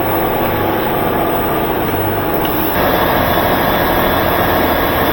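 Small multi-stage vertical centrifugal pump, half the kilowatt rating of the pump the machine is meant to have, running steadily as it is test-run as a solution pump. Its sound steps up slightly about three seconds in.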